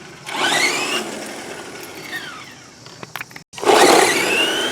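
Redcat Volcano EPX RC truck's brushed electric motor and drivetrain whining as it accelerates on a 2S LiPo, twice: a rising whine that fades off, then after a brief break a louder burst that climbs in pitch and holds.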